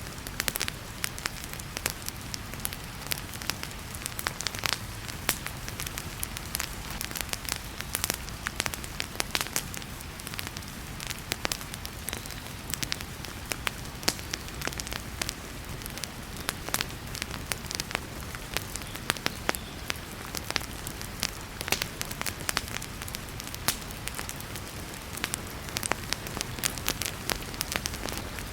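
Wood fire crackling in a fireplace, with frequent irregular pops and snaps, over a steady hiss of heavy rain.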